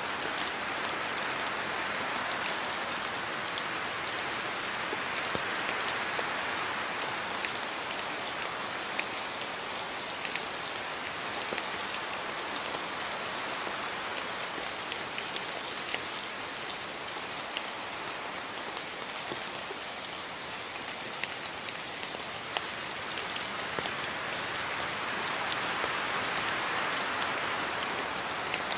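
Steady rain falling on a yard, an even hiss with many small drop ticks scattered through it, swelling and easing slightly in intensity.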